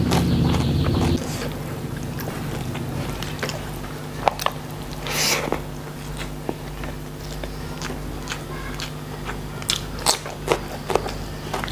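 Close-up eating sounds: a person chewing and biting, with scattered sharp crunches and mouth clicks. A steady low hum runs underneath, louder for about the first second.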